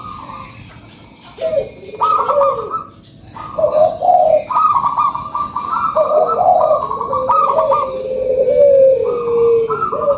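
Zebra dove (perkutut) cooing in repeated, overlapping phrases of trilled notes, starting about a second and a half in after a quiet moment.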